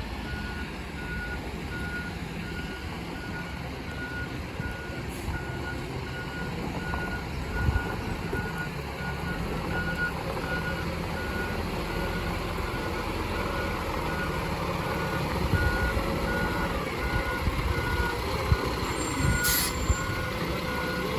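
Side-loader garbage truck's engine running under a reversing alarm that beeps steadily at one pitch, with a short hiss near the end.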